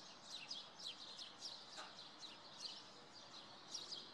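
A flock of small birds chirping: many short, high chirps overlapping several times a second, over a faint steady background hum.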